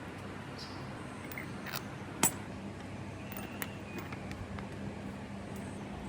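Scattered light clicks and clinks of small hard objects being handled, with one sharp clink about two seconds in, over a steady low hum.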